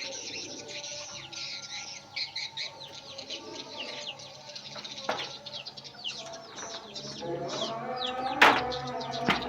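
A flock of small birds chirping busily, with chickens clucking over the last couple of seconds and a sharp knock about eight and a half seconds in.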